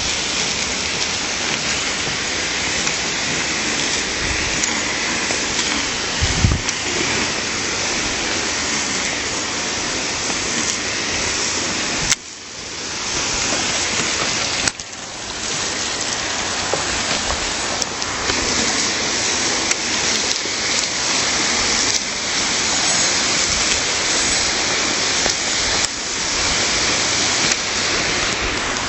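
Steady rush of a stream's flowing water, loud and even, with two brief drops in level about twelve and fifteen seconds in.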